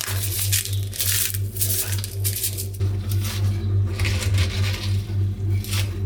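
Repeated crunchy crushing and crackling strokes from food being handled, coming irregularly about one or two a second, over a steady low hum.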